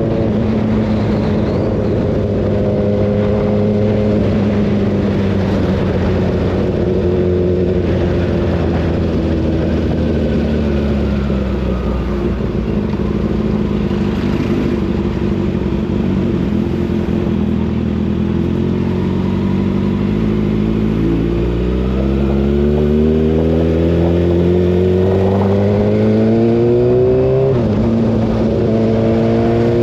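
Kawasaki ZX-6R's inline-four engine running at road speed. Its pitch eases down, then climbs steadily for about six seconds as the bike accelerates, and drops suddenly near the end before holding steady.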